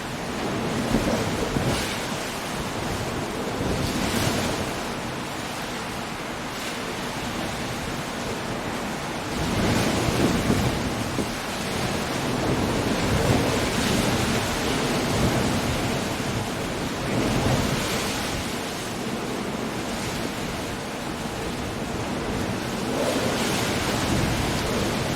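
Coastal storm: surf breaking against the shore in surges that swell every few seconds, over a steady rush of wind and rain.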